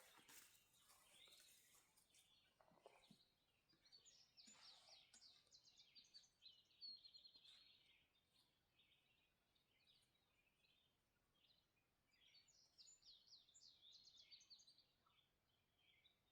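Faint songbird singing: two runs of quick, high, falling notes a few seconds apart, with a soft rustle at the very start.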